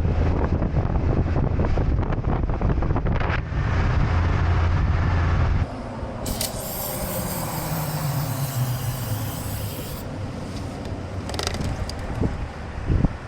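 Wind buffeting and road rumble from a motorcycle riding at speed. About five and a half seconds in it cuts to a quieter stretch of road noise, with a hiss and a vehicle passing, its pitch falling as it goes by.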